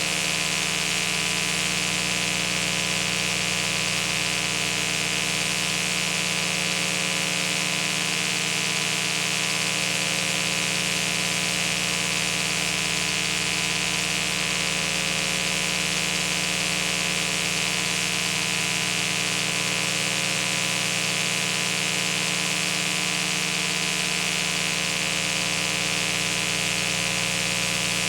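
Steady hiss with a constant electrical hum and no other events.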